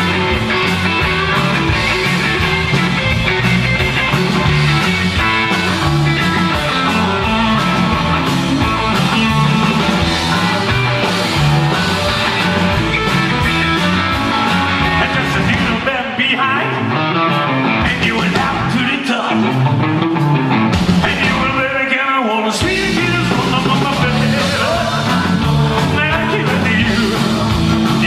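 Live rock 'n' roll band playing a song, with electric guitar. The low end drops away for a few seconds a little past the middle, then the full band comes back in.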